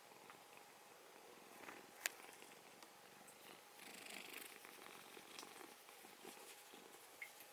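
Domestic cat purring softly, with a single sharp click about two seconds in.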